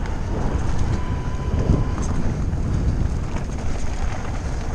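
Wind rushing over the microphone, with tyres rumbling and rattling over a dirt trail on a fast mountain-bike descent. A faint steady high whine runs through the first couple of seconds.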